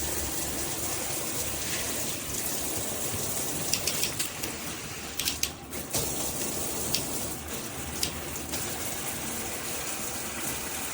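Water spraying steadily from a Cobbe filtered shower head, an even hiss of running water with a few brief sharp clicks in the middle; it cuts off suddenly at the end.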